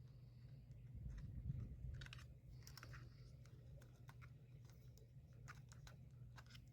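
Faint scattered clicks and small handling noises from a screwdriver and small drone parts being worked on, over a low steady hum.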